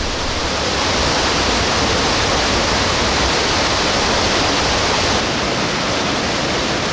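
A waterfall in heavy flow, swollen by recent rain, pouring down with a steady, dense roar of falling water.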